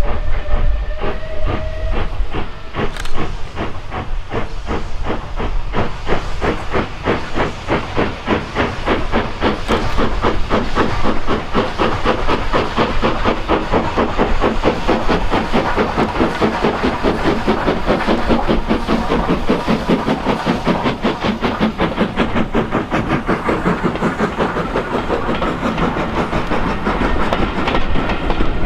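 Steam locomotive whistle blowing near the start, then the locomotive's exhaust beating hard and evenly. The beats quicken steadily as it gathers speed, over a hiss of steam.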